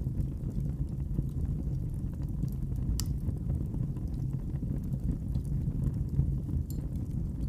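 Wood fire burning in a fireplace: a steady low rumble with sparse crackles and pops, one sharper pop about three seconds in.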